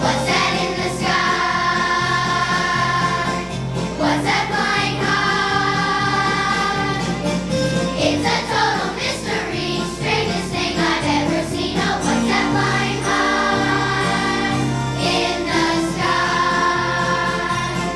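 Music: a choir singing over an accompaniment with a pulsing, repeating bass line.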